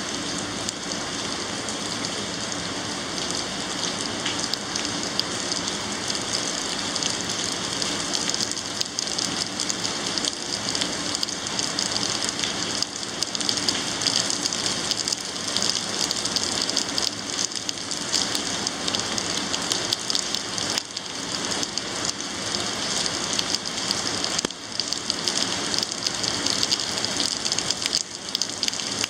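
Heavy thunderstorm rain pouring steadily, a dense, even hiss of falling drops.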